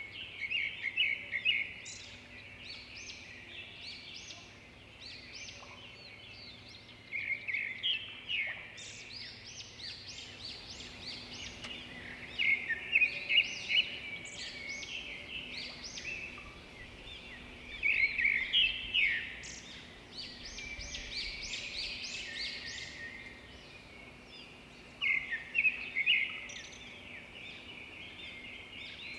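Birds singing: bouts of rapid, high chirping notes about every five seconds, over a steady background hiss.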